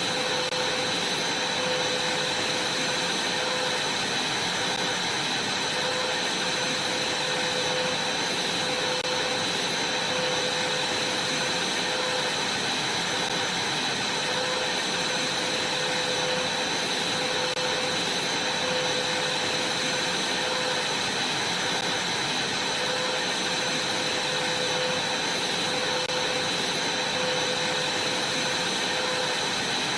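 Vacuum cleaner running steadily while vacuuming a trampoline: a constant rush of air with a steady high whine and a fainter low hum that swells gently every couple of seconds.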